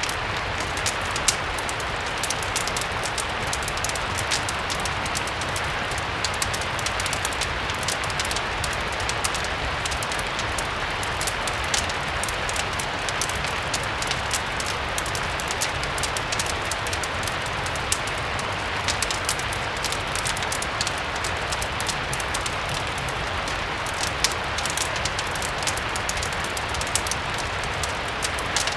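Steady rain mixed with a crackling fireplace: an even rain hiss with a constant scatter of small sharp crackles and a few louder pops.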